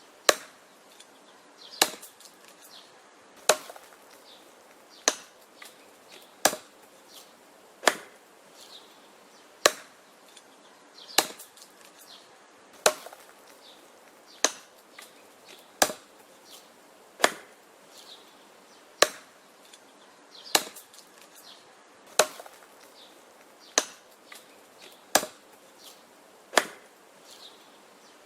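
Axe chopping wood in a steady rhythm: about eighteen sharp, loud strikes, roughly one every second and a half, each followed by a few faint knocks.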